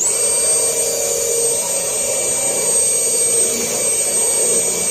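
High-speed rotary die grinder with a head-porting bit, spinning up quickly to a steady high whine while grinding rust out of a steel car hood.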